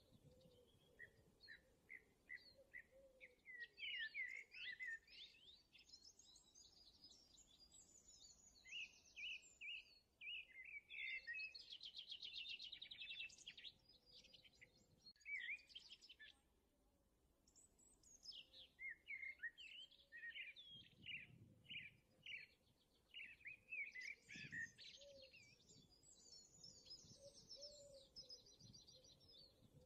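Faint songbirds chirping and singing: short repeated chirps and rapid trills from several birds overlapping, with a brief lull about halfway through.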